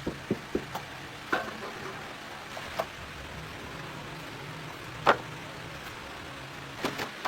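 Scattered sharp clicks and knocks of hand tools and metal parts being handled, over a low steady hum. The loudest click comes about five seconds in.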